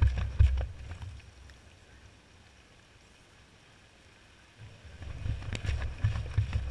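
Washing machine drum turning two washcloths in soapy water, heard from inside the drum: a low rumble with knocks and sloshes that dies away about a second in, stays near silent for about three seconds, then starts again. The drum is pausing between turns of the wash cycle.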